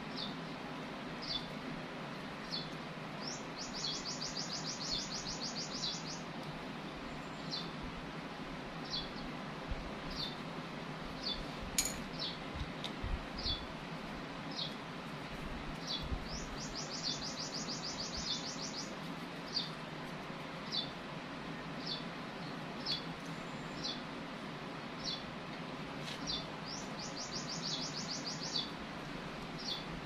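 A bird calling: short, high chirps about once a second, with a fast trill of rapidly repeated notes three times, about ten seconds apart, over steady background noise. A single sharp click sounds about twelve seconds in.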